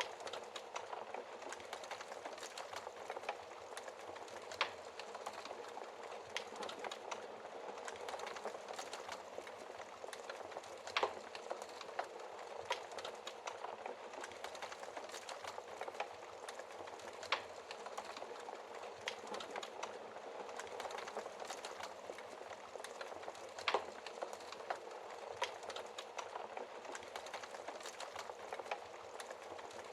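Wood fire burning in a fireplace: a steady crackle and hiss with frequent small snaps and a louder pop every few seconds.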